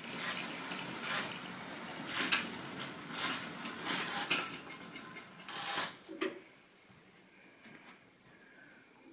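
Model railway train running along the track, a rattling run with sharp clicks that fades out about six seconds in.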